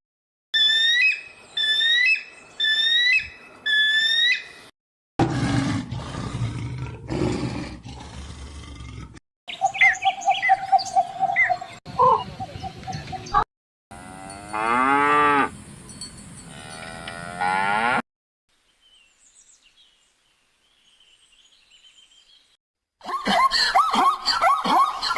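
Calls from several different animals in short clips cut one after another, each starting and stopping abruptly, including cattle mooing.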